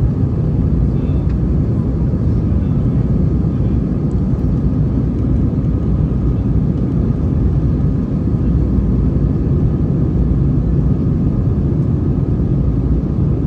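Airbus A320 cabin noise during takeoff and climb: the engines and rushing air make a loud, steady rumble.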